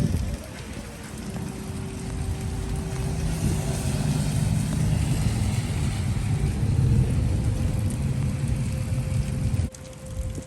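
Steady heavy rain with a long low rumble that swells over several seconds and cuts off suddenly near the end. Soft flute notes sound faintly underneath.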